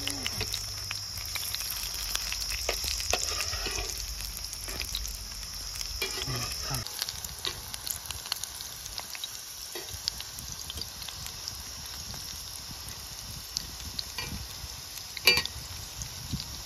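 Chicken kabab cutlets shallow-frying in hot oil in a metal pan: a steady sizzle with scattered crackles, a metal spatula moving among them, and one sharp tap near the end.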